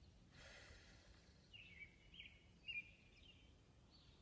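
Near silence with faint bird chirps: a few short, high, falling chirps between about one and a half and three seconds in.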